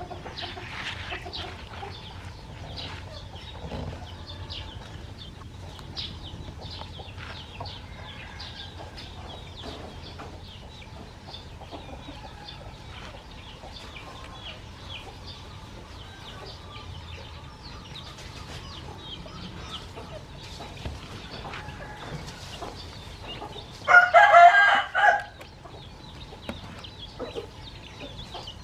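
Chickens clucking, with many short high calls throughout. Toward the end a rooster crows once, the loudest sound.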